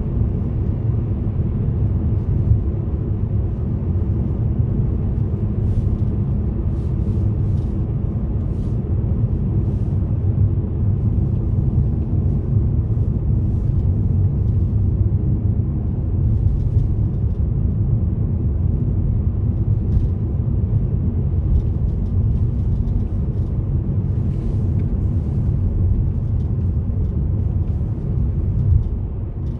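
Car driving along a road: steady low rumble of engine and tyres on the road surface, with a few faint clicks.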